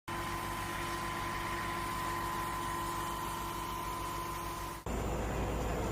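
A vehicle engine running steadily, a low even hum with a constant higher tone over it. About five seconds in the sound cuts abruptly to a deeper, steadier rumble.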